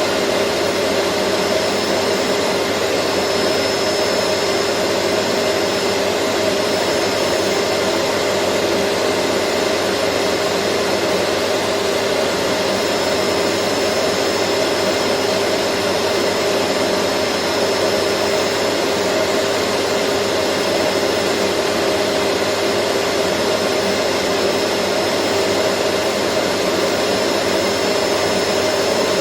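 Vacuum cleaner running at a constant speed: a steady whooshing noise with a low hum and a thin high whine, with no change in pitch or level.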